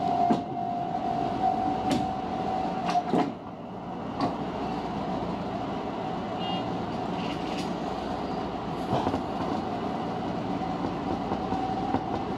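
Tobu 50000-series electric train running at low speed, heard from the driver's cab. A steady running noise carries a few sharp wheel clicks over rail joints in the first four seconds.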